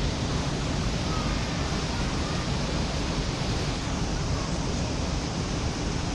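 Steady outdoor rushing noise with a flickering low rumble.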